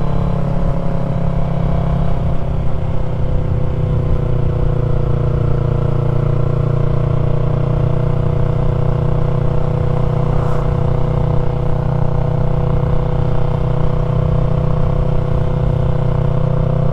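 2020 Yamaha MT-03's parallel-twin engine through an aftermarket full-system exhaust, running at a steady cruise. Its note eases down slightly over the first few seconds, then holds even.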